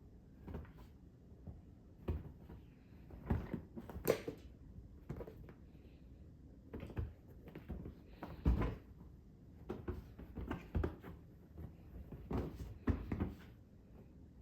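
Irregular thumps and scuffs of a cat pouncing and landing on the floor as it chases a laser dot, some coming in quick pairs and clusters.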